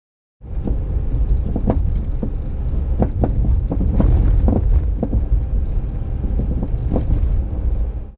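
Suzuki Every DA64V van on the move, a steady low rumble with a dozen sharp, irregular knocks from the front suspension: the clunking typical of worn front stabilizer bushes. The sound starts and stops abruptly.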